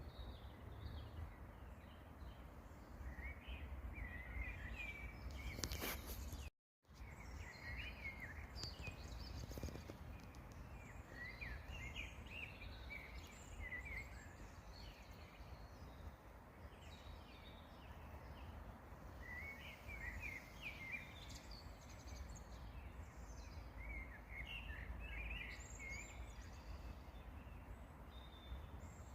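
Small songbirds singing short, twittering phrases every few seconds over a steady low rumble. The sound cuts out for a moment about six and a half seconds in.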